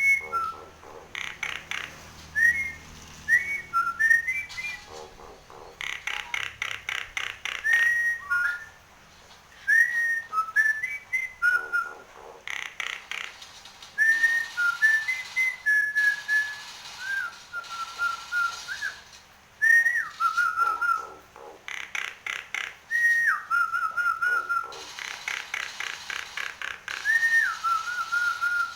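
Nias hill myna singing: clear whistled notes, some short and stepped, some held with a quick wavering trill, alternating with runs of rapid rattling chatter.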